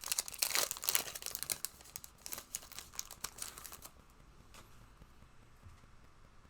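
Trading cards and their pack wrappers rustling and crinkling as they are handled by hand, busy crackle for the first couple of seconds, then only a few faint rustles.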